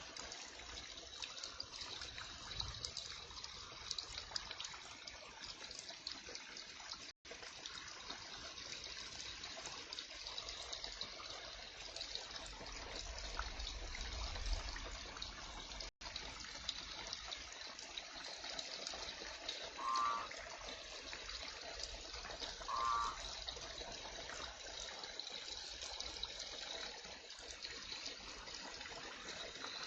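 Heavy rain falling steadily, a constant hiss of water. Two short chirps sound about twenty and twenty-three seconds in.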